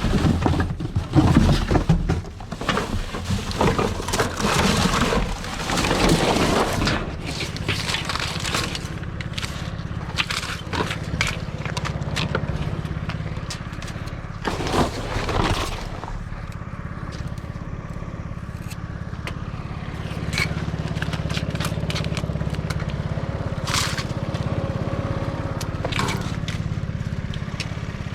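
An engine running steadily, with loud scraping and clattering over it for the first several seconds and scattered sharp clicks later.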